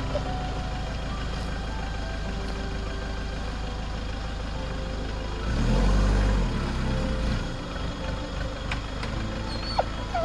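Van engine running with a steady low drone, revving up for about a second halfway through.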